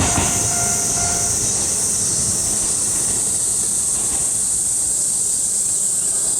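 Keio Racecourse Line electric train passing the level crossing, its wheels rumbling and clicking on the rails, the rumble dying away after about a second as it moves off. A steady tone cuts off just over a second in, and a steady high-pitched buzz runs underneath.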